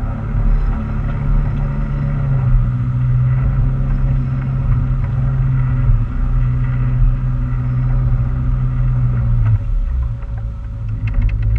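A motorboat's engine running steadily with a low drone. Its pitch dips slightly about two seconds in, and it eases off near the end.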